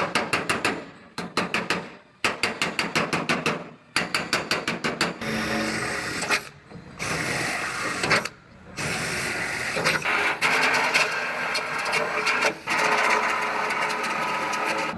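Power tools working on sheet metal: bursts of rapid clicking, about ten a second, during the first five seconds, then longer stretches of steady noise with a few short breaks.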